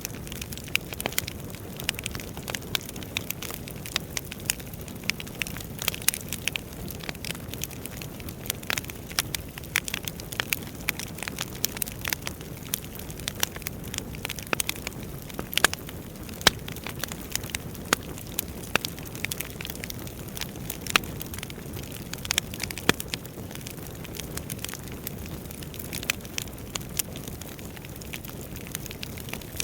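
Wood fire burning in a fireplace: a steady low rush of flame with many sharp, irregular crackles and pops from the burning logs.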